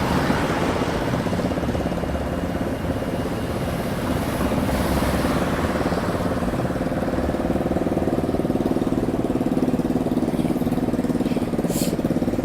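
Car engine idling steadily, its hum growing clearer in the second half.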